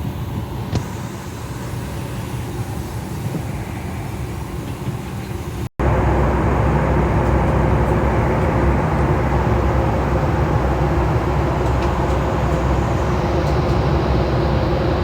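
Steady rumble of a moving vehicle heard from inside, cutting off abruptly about six seconds in and coming back louder and deeper.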